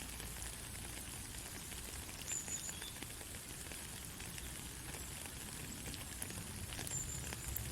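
Steady light rain: an even hiss of rainfall with many small drops pattering and ticking on surfaces.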